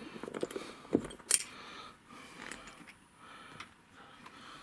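Metal tools and parts clinking and clicking during hand repair work, with two sharp clicks a little after a second in.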